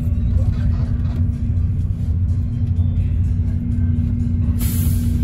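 Steady low rumble of a bus's engine and road noise heard inside the cabin, with a steady hum and music playing along. A short hiss cuts in near the end.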